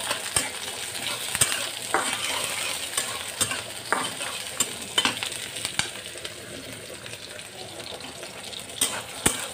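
Chopped onion and green chillies sizzling in hot oil in a metal kadai, with a metal spatula scraping and knocking against the pan now and then as they are stirred.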